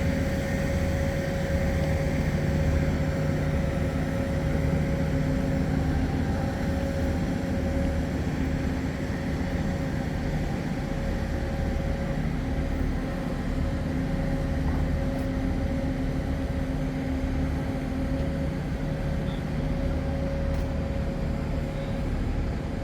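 A steady mechanical hum with a few held tones over a noisy rumble, unchanging throughout.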